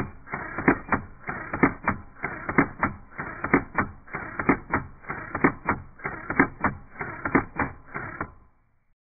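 A steady rhythm of sharp, dull-sounding clicks or claps: a strong one about once a second with several lighter ones between. It stops shortly before the end.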